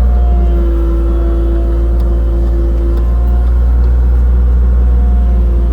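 Excavator's diesel engine running steadily while digging: a deep, continuous rumble with a humming tone above it that swells and fades.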